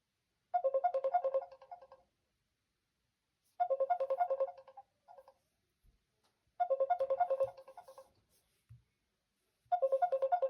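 Smartphone call-app ringtone: a short phrase of quick, bright chime-like notes, repeating about every three seconds, four times over.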